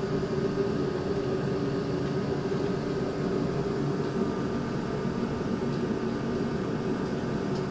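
A steady, unbroken machine hum with no strokes or changes in pitch.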